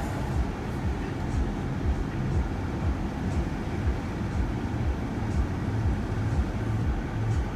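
Steady low rumble of engine and road noise inside a moving passenger van's cabin.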